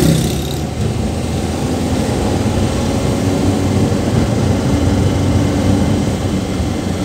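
Suzuki Carry pickup driving: a steady drone of its engine and road noise heard from inside the cab.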